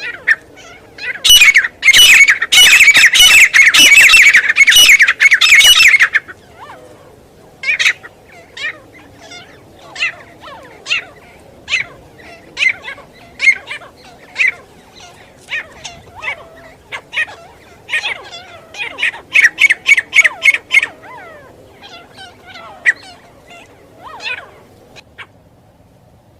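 Francolin (teetar) calling: a loud rapid run of repeated harsh calls for several seconds, then scattered single calls, and a second shorter rapid run a little after the middle.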